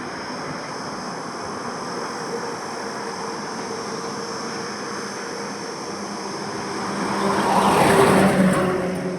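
Highway traffic: a steady wash of tyre and engine noise from passing vehicles. Near the end one vehicle passes close, its engine and tyres swelling to the loudest point and then fading.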